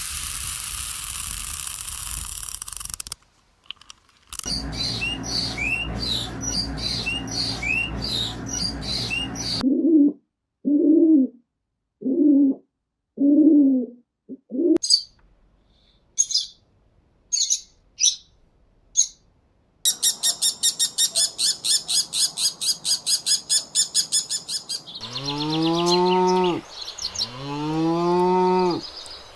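A run of spliced animal-sound clips: a stretch of hiss, then a bird chirping repeatedly, five short low calls, a few scattered high chirps, a fast run of rapid chirping, and near the end two long animal calls that rise and then fall in pitch, like mooing.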